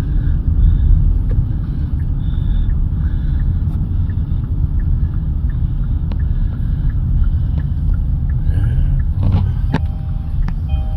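Steady low road-and-engine rumble heard from inside a moving car. A few clicks and short beeping tones come in near the end.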